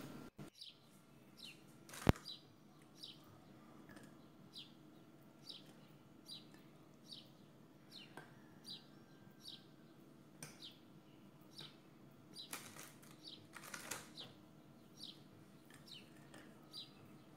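A bird chirping over and over: short, high, falling chirps, a little more than one a second. One sharp click about two seconds in, and two brief rustles later on.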